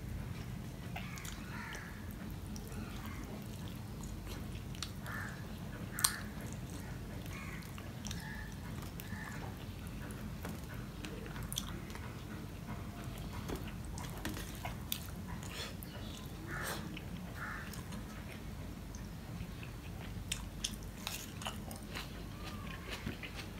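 A man chewing and biting mouthfuls of rice mixed with curry, eaten by hand, with soft wet mouth sounds and scattered sharp clicks, the loudest about six seconds in. A steady low hum runs underneath.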